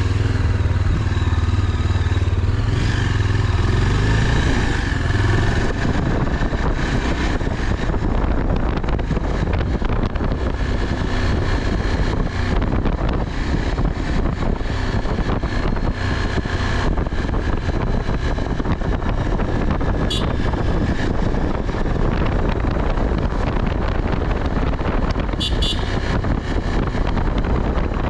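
Motorbike engine running on the move, with heavy wind noise buffeting the microphone. A steady low engine note is clearest at first, then is mostly covered by the wind. A few brief high beeps come in the second half.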